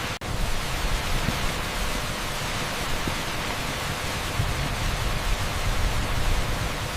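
Torrential rain on asphalt, heard as a dense, steady hiss with a low rumble underneath. It cuts out for an instant about a quarter second in.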